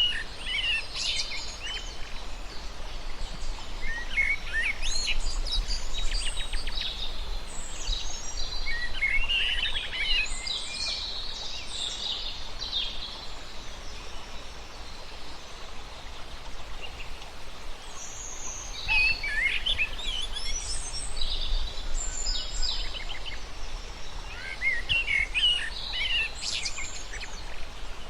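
Several birds singing in bursts of quick, high twittering phrases separated by short pauses, over a steady low background noise.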